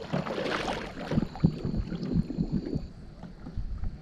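Water splashing around a kayak on the river, with wind buffeting the microphone and scattered low thumps. It quietens after about three seconds.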